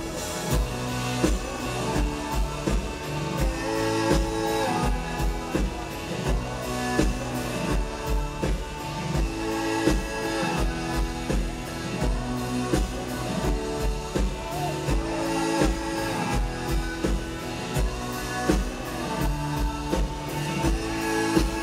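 Live rock band playing a mid-tempo song: a steady drum-kit beat under guitars.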